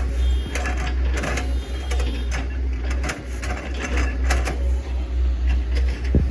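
Hitachi ZX110 MF excavator's diesel engine running as a steady low drone, with many sharp cracks and knocks from the machine chopping up an oil palm trunk.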